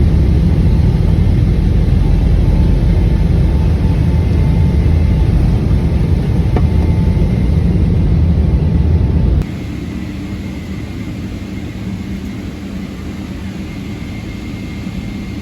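Steady low rumble of airliner cabin noise from the engines and airflow in flight. About nine seconds in it cuts abruptly to a quieter steady cabin hum with a faint high tone.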